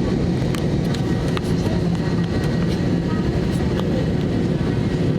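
Airbus A320 cabin noise on the ground after landing: a steady low rumble and hum from the aircraft, with scattered small clicks and rattles throughout.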